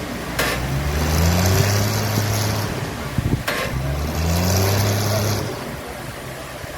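Sawmill machinery running: an engine speeds up twice with a loud hiss over it, each rise starting just after a short click. Near the end it drops back to a quieter steady run.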